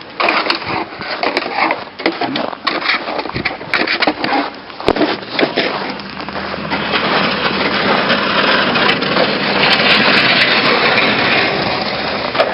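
Footsteps crunching in packed snow, an uneven run of crunches. About halfway through they give way to a steady rushing noise that builds and then holds.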